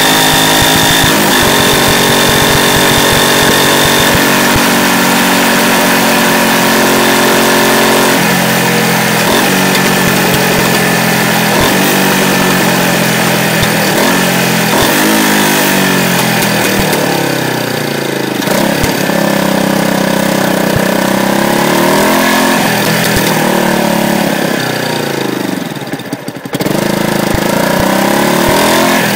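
Yamaha YZF-R125's single-cylinder four-stroke engine under way, heard from below the bike. It holds a steady pitch at first, then repeatedly climbs and drops as the rider accelerates and changes gear. Near the end its pitch falls sharply and the sound briefly dips before it settles steady again, with wind noise throughout.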